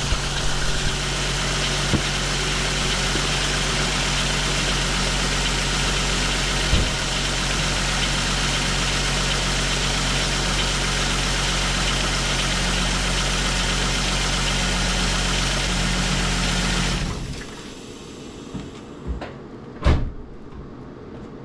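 2000 VW Eurovan's VR6 engine idling steadily. It runs quietly with its new A/C compressor bearing and clutch fitted, though the A/C clutch is not kicking in. The engine shuts off about 17 seconds in, followed by a few knocks, the loudest near the end.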